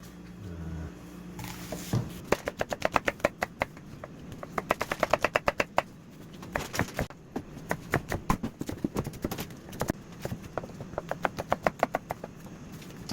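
Knife chopping on a cutting board: rapid runs of sharp knocks, about seven a second, in several bursts with short pauses between.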